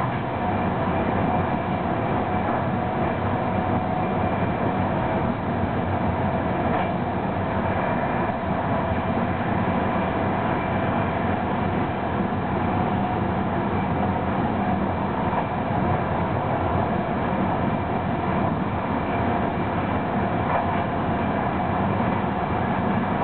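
ÖBB Eurocity passenger train running at high speed, around 200 km/h, heard from inside the coach: a steady rolling rumble of wheels on rail with a constant hum over it, and no regular clickety-clack.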